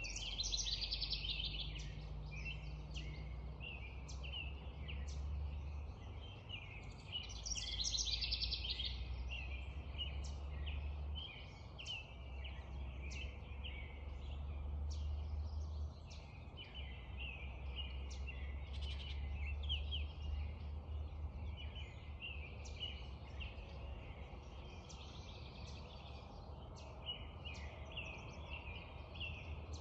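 Spring dawn chorus of many songbirds calling and singing over one another without a break, with louder bursts of song near the start and about eight seconds in, over a steady low rumble.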